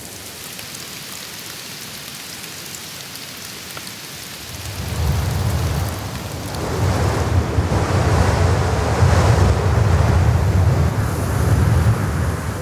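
Blizzard wind blowing in gusts. About five seconds in it rises into a heavy, surging rumble as the gusts buffet the microphone.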